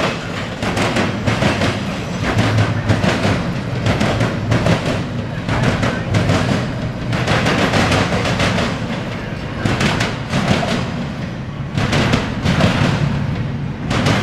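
Intermodal freight train rolling past close by: a loud, continuous rumble with irregular clattering knocks of the wheels and cars.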